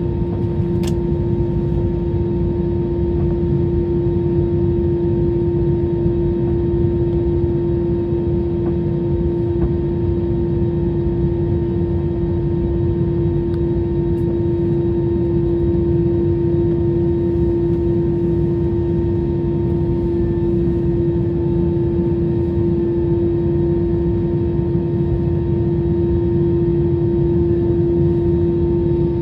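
Steady airliner cabin noise: a constant low rumble and rush with a strong, unchanging hum.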